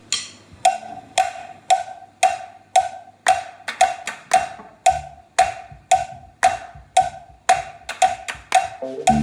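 Music: a steady percussion beat of sharp, evenly spaced knocks about twice a second, each with a short pitched ring, over faint low notes. A bass line and fuller instruments come in near the end.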